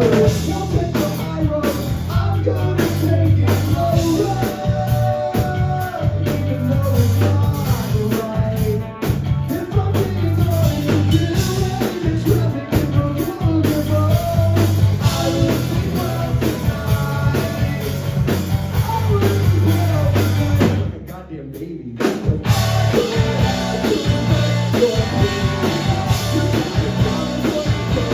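Live rock band playing a song, with drum kit and sung vocals. About three quarters of the way through the band cuts out for roughly a second, then comes back in.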